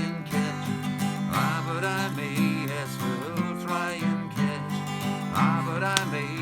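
Acoustic guitar strumming steady chords in an instrumental break between sung verses, with a melody line gliding and bending in pitch above it.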